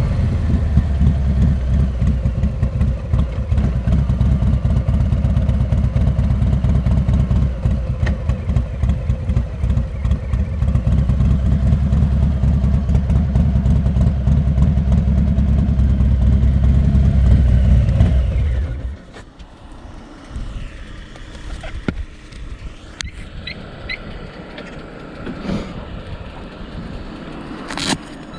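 Harley-Davidson Heritage Classic 114's Milwaukee-Eight V-twin with Rinehart exhaust running at a steady idle with a loud low pulsing beat, then shut off about 19 seconds in. After that only a few faint clicks.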